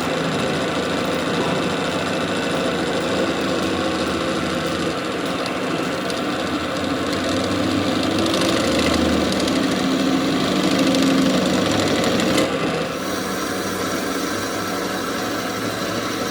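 A machine running steadily, its sound changing slightly about twelve and a half seconds in.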